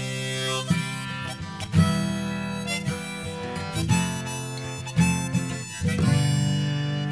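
Harmonica playing sustained melody notes over plucked acoustic guitar: an instrumental break in a folk song.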